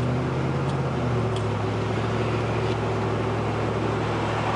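Car engine and road noise heard from inside the cabin while driving: a steady low hum over an even rush.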